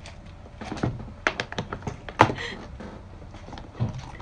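Lobster shell cracking and clicking as it is pried and broken apart by hand: a run of sharp cracks, the loudest about two seconds in.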